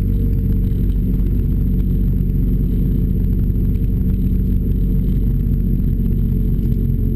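Renault Clio RS engine and Bastuck aftermarket exhaust running at steady, fairly low revs, with no rise or fall in pitch.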